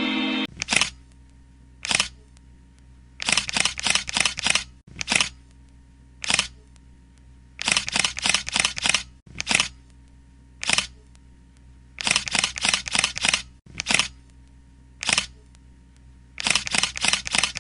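Camera shutter clicking, sometimes a single shot and sometimes quick runs of four or five shots.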